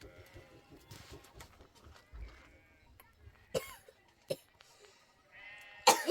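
Flock animals bleating: a faint call about two seconds in and a louder, wavering bleat near the end. A few sharp knocks come in between.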